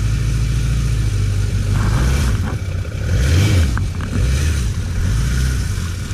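1991 Suzuki GSX1100F's inline-four engine idling steadily, with a brief rise and fall in revs about three and a half seconds in.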